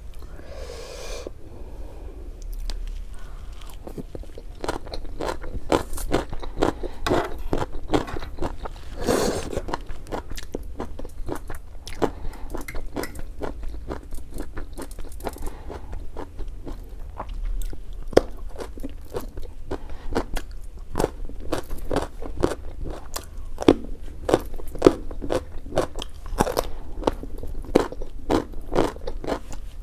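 Close-miked crunching and chewing of raw carrot: a fast run of crisp crunches, sparser at first and then denser.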